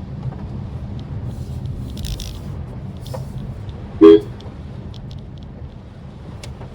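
Steady low rumble of a Maruti Suzuki Swift Dzire driving, heard from inside the car, with one short, loud car horn toot about four seconds in.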